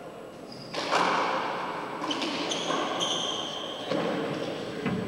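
Handball rally in an enclosed four-wall court: the ball slapped by hand and smacking off the walls and floor, several sharp impacts with a hard echo after each.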